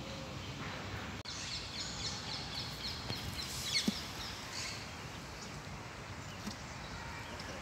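Outdoor background noise with small birds chirping in a quick run of high chirps through the middle. The sound drops out briefly just over a second in.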